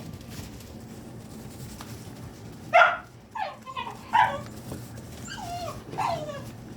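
Puppies barking and whining at play. The first few seconds are quiet; then a sharp bark comes about three seconds in, followed by short falling whines and yips and a couple more barks.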